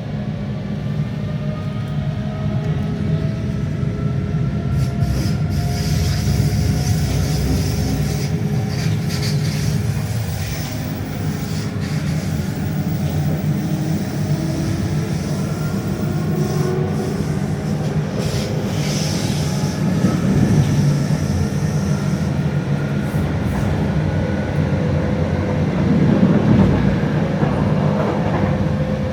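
ÖBB Cityjet electric train running along the line: a steady rumble of wheels on track, with the electric drive's faint whine slowly gliding up and down in pitch.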